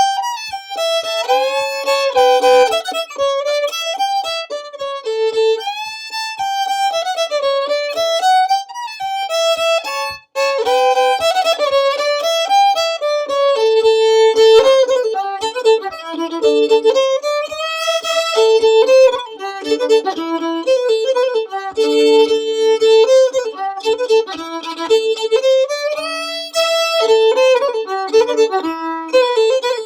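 Solo fiddle playing a lively traditional fiddle tune, a quick run of bowed notes, often sounding two strings at once.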